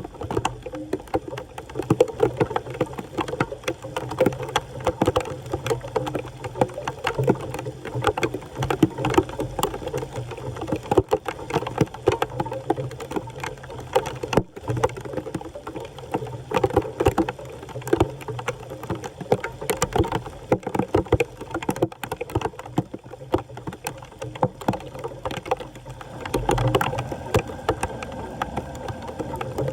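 Water splashing and sloshing continuously, with many irregular small splashes, as standing floodwater at a street drain is worked through.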